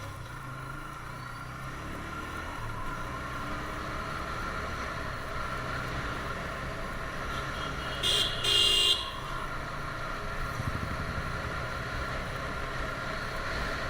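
TVS Apache RTR 160 motorcycle's single-cylinder engine running on the move, with steady road and wind noise. A vehicle horn honks twice in quick succession about eight seconds in; it is the loudest sound.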